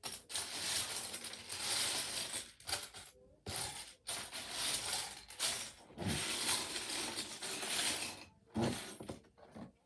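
Loose plastic Lego pieces clattering and clinking as hands rummage through a pile of them, in several long stretches with short pauses.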